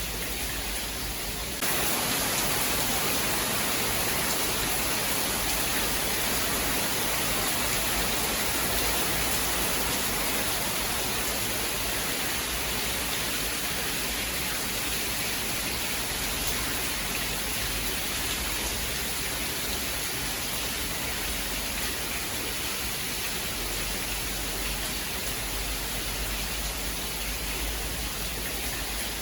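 Steady rain, a continuous even hiss with no thunder; it steps up slightly louder and brighter about two seconds in.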